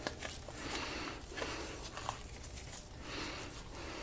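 Disposable gloves being pulled onto the hands: faint, irregular rustling with a few small ticks.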